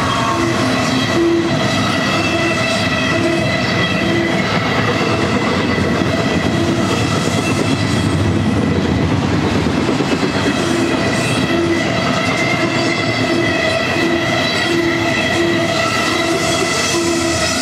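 Double-stack container well cars of a BNSF freight train rolling past at speed: a steady rumble and rattle of steel wheels on rail, with a regular clickety-clack about twice a second and steady high-pitched ringing over it.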